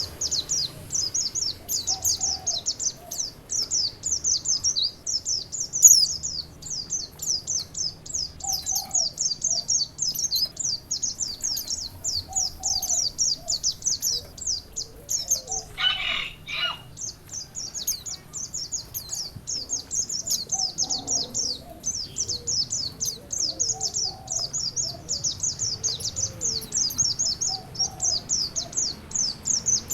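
Songbird chirping in a fast, high-pitched, unbroken run, with softer lower calls every few seconds and a harsher call about halfway through. A faint wash of running water lies under it.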